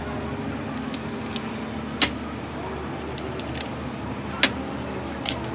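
Workshop sounds during a hydraulic pump repair: sharp metallic clinks of tools or parts struck against metal, about five of them spread irregularly, over a steady low engine-like hum.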